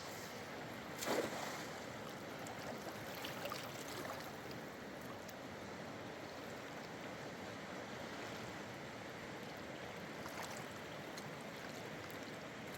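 Steady rush of running water, as of a stream or river, with a brief louder splash-like sound about a second in and a few faint clicks.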